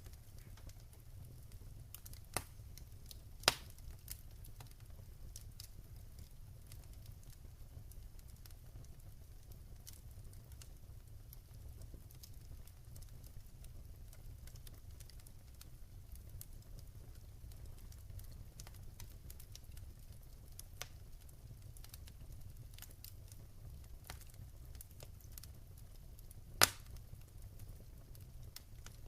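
Wood fire crackling in a fireplace: scattered small snaps over a low steady rumble, with two loud pops, one about three seconds in and one near the end.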